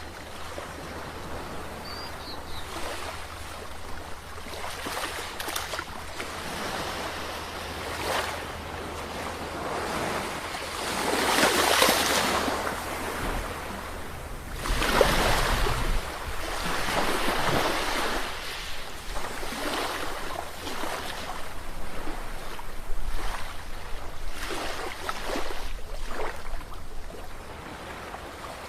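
Sea waves breaking and washing on the shore in repeated swells, the loudest around the middle, with a low rumble of wind on the microphone underneath.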